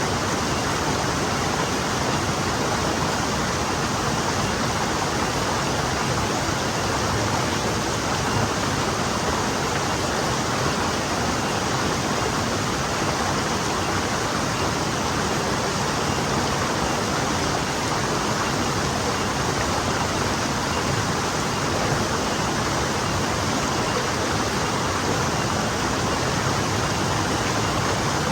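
Small forest stream flowing, a steady even rush of water over rocks without breaks or changes.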